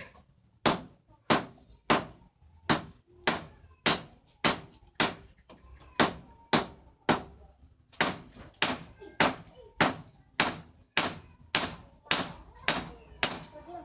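Hand hammer forging leaf-spring steel into a golok blade: steady blows about two a second, each with a short, high metallic ring, with a couple of brief pauses.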